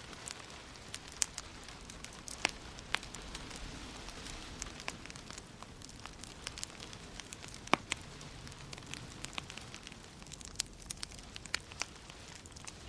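Wood fire crackling in a fireplace: irregular sharp pops and snaps over a steady hiss, with a few louder pops, the loudest about eight seconds in.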